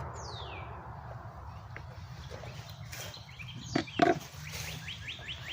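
Wild birds calling: one falling whistle near the start, then a quick run of repeated high chirps, about five a second, beginning near the end. Two sharp knocks a little before that are the loudest sounds.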